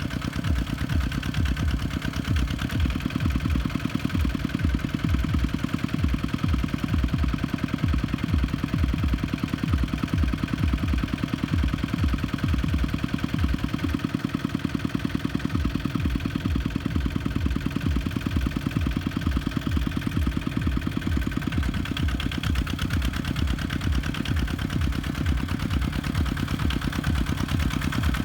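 Kubota tractor's diesel engine running steadily with an even, rapid firing pulse, easing off slightly about halfway through.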